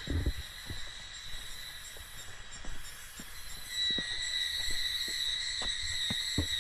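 Cicadas buzzing steadily in a high, even drone that grows louder about four seconds in, with scattered soft low knocks.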